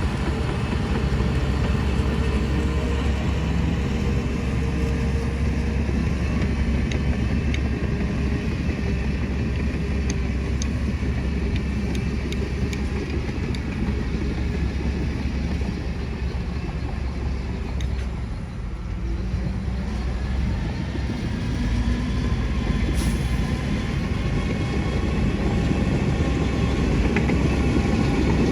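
Heavy diesel earthmoving machinery running steadily under work, its engine sound easing off briefly about two-thirds of the way through before building up again.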